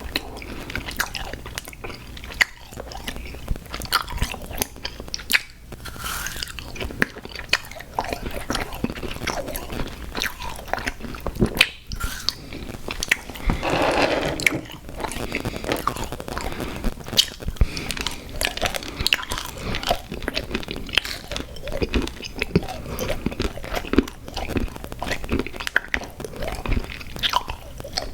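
Close-miked chewing and biting of sour gummy worms cereal: steady, irregular wet crunching and crackling with many small clicks. There is a louder, denser stretch of crunching about halfway through.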